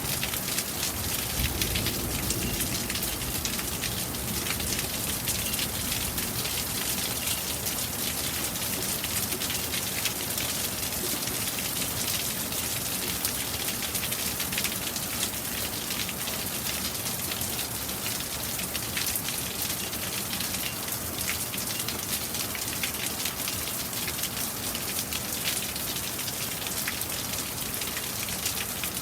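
Steady heavy rain, a dense hiss of many small drop impacts throughout.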